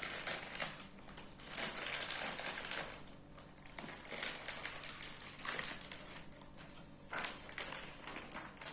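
Plastic chip bag of Flamin' Hot Cheetos crinkling and rustling in several bursts with fine crackles, as pieces are taken out.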